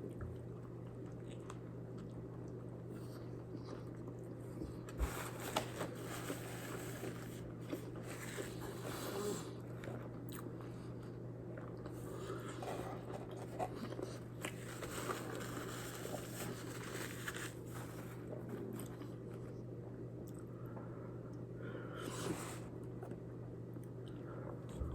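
A person chewing a burger close to the microphone: faint soft crunches, smacks and mouth clicks. A steady low hum runs underneath.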